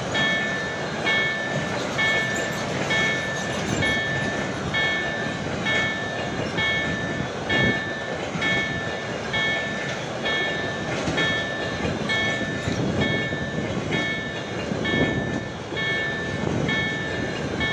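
Empty car-transporter freight wagons rolling past on electrified main line track, a continuous rumble with wheel clacks. Over it a level-crossing warning signal sounds a short high tone about once a second.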